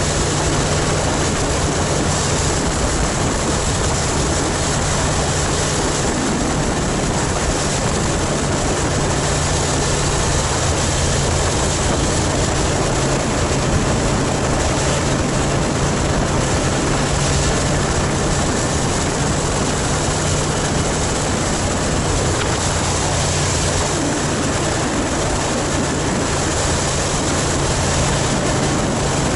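Motorcycle engine running at a steady cruising speed, with heavy wind rushing over the microphone.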